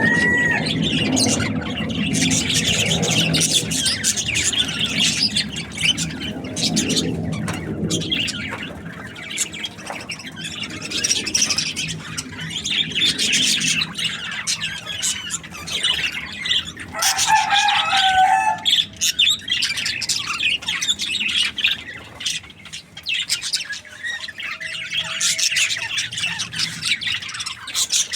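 Budgerigars chirping and chattering in a dense, continuous stream of quick high chirps, with one short, lower pitched call from another bird about two-thirds of the way through.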